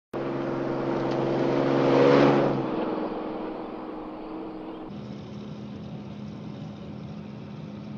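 A Jeep's engine running as it drives up the road and passes close, loudest about two seconds in. About five seconds in it changes to a steady engine drone heard from inside the Jeep's cab.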